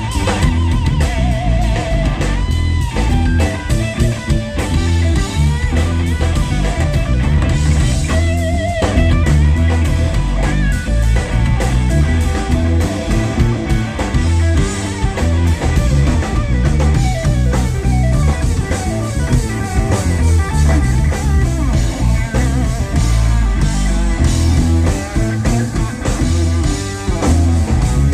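Live blues-rock band playing an instrumental stretch: electric guitar lead with string bends and vibrato over bass and a drum kit.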